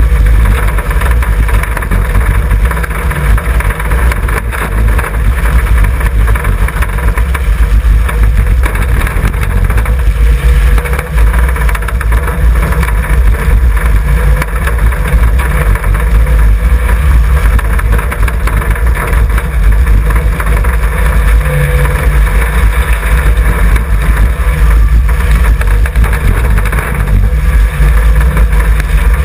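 A stripped-out Mitsubishi Sigma's four-cylinder engine running hard on a dirt track, heard from inside the glassless cabin: a loud, continuous engine sound with heavy low rumble and open-air noise.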